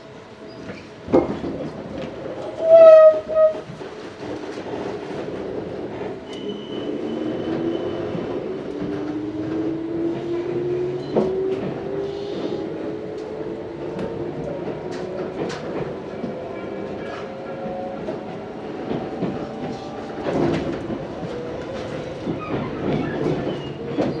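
Tobu 634-series train heard from inside the car: a short horn blast about three seconds in, then the traction motors' whine climbing slowly in pitch as the train gathers speed, over steady running noise with clicks from the rail joints.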